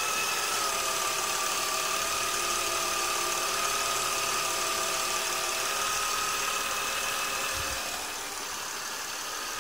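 BMW E39 2.2 inline-six engine idling with a steady high whine, which the owner asks may be a worn-out VANOS unit.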